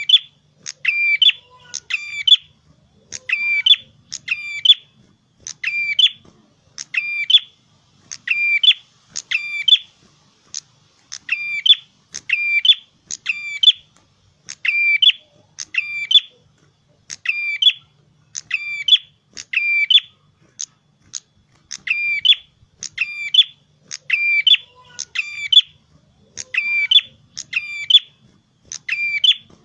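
Prenjak kepala merah, a small Indonesian prinia-type songbird, singing 'gacor': a loud, high, sharp phrase of a few quick notes repeated about once a second, sometimes two in quick succession.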